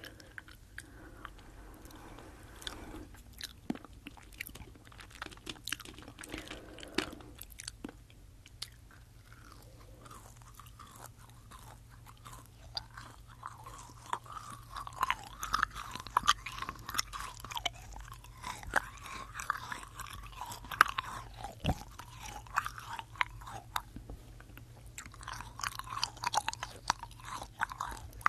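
Close-up chewing of Fini sour gummy candy into a binaural microphone: wet, sticky mouth sounds with many small clicks. The chewing gets busier about halfway through and again near the end.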